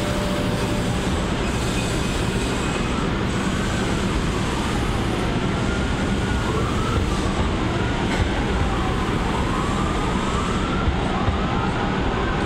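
Electric commuter train approaching a station platform: a steady rumble under wavering squeals that glide up and down in pitch.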